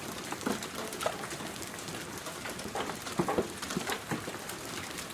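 Hail and heavy rain striking hard surfaces: a steady hiss dense with sharp, irregular clicks of individual hailstones. A few brief pitched sounds rise over it about half a second, one second, three seconds and four seconds in.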